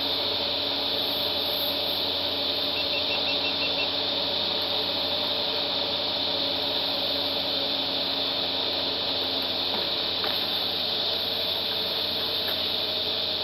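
Hyundai Sonata's V6 engine heard from inside the cabin, running steadily at low revs as the car rolls slowly, under a constant hiss of road and tyre noise.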